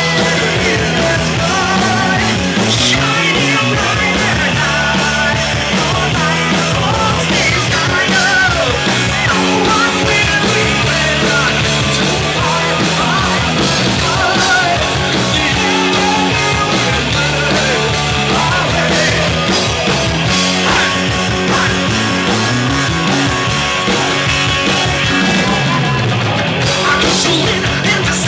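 Heavy metal band playing live: distorted electric guitars, bass and a fast, steady drumbeat, loud and continuous.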